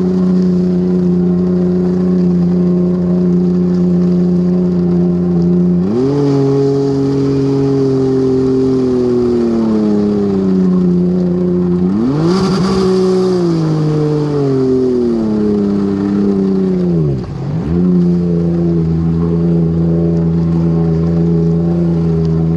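Jet ski engine breathing through a RIVA Racing free-flow exhaust, running with a deep rumble. It idles steadily, is blipped about six and twelve seconds in with the revs falling back slowly each time, and dips briefly near the end before settling back to idle.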